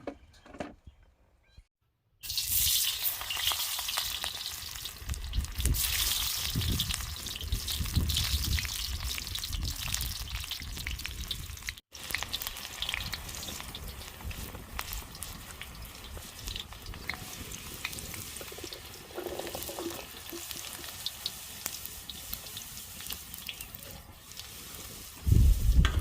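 Food sizzling in hot cooking oil, starting suddenly about two seconds in and going on as a steady hiss. A short low thump comes near the end.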